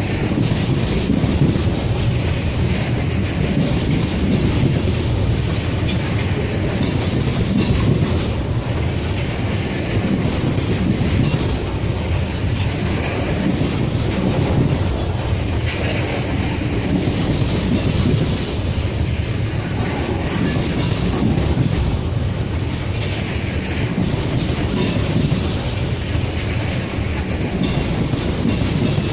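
Crude oil freight train's cars rolling past steadily, a continuous loud rumble with wheels clacking over the rail joints.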